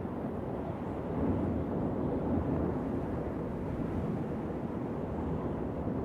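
Steady low rumble of wind, a dull noise with no whistling, swelling slightly about a second in.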